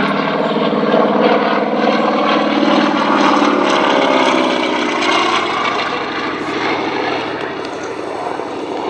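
Propeller-driven aircraft flying past, its engine note falling in pitch as it goes by and easing off near the end.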